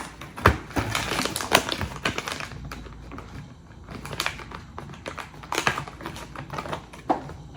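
Kitchen handling noise: an irregular run of sharp clicks and taps with light rustling as sliced cheese and its packaging are handled on the counter.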